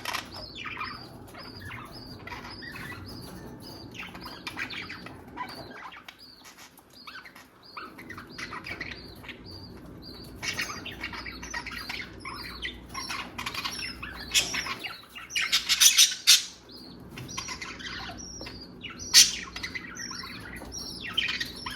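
Budgerigars chattering with quick short chirps, with a louder harsh burst about two-thirds of the way through and a sharp click soon after.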